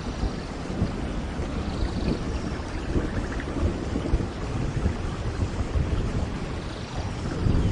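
Thunderstorm in a rainforest: steady heavy rain with low, rolling thunder, the rumble swelling near the end.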